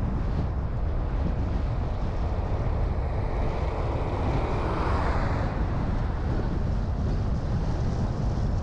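Steady road and wind noise from a car being driven, with a low rumble throughout and a broad swell of noise about four to five seconds in.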